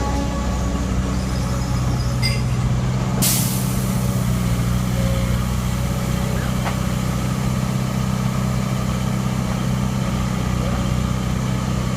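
Heavy diesel engine running steadily, with a sudden loud hiss of released air about three seconds in, typical of a truck's air brakes.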